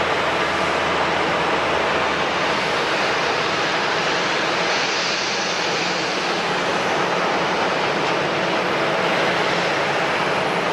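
Jet airliner engines running at the airport as a steady noise, with a brighter hiss swelling and fading about halfway through.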